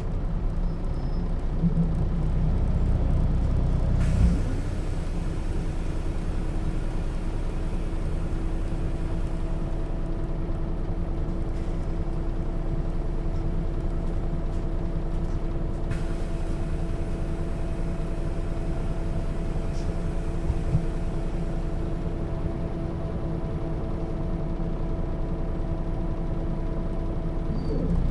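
Setra S 315 UL city bus's diesel engine: a low rumble for about four seconds, then a sharp click, after which it settles into a steady, even running with a constant hum, and the rumble swells again at the very end.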